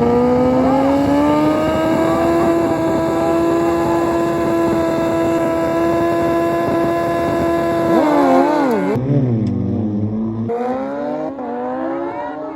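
Drag-racing motorcycle engine running hard at high revs, its pitch holding almost steady for several seconds, then wavering and dropping about eight seconds in as the throttle comes off. The sound changes abruptly about nine seconds in, leaving a lower engine note.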